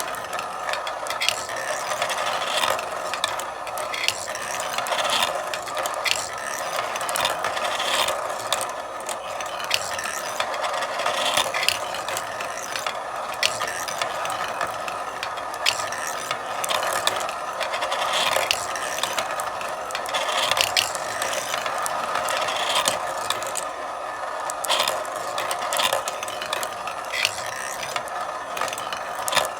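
Marbles rolling and clattering along a marble run: a continuous rattle with frequent sharp clicks as the marbles knock against the track and each other.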